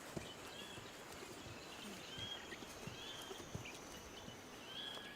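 Faint outdoor ambience with small birds chirping now and then, short high chirps repeating every second or so, and a few soft knocks.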